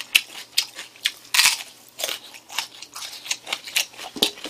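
Close-up crunching and chewing of a raw crisp green pepper (asak-i gochu): irregular crunches about twice a second, the loudest about a second and a half in.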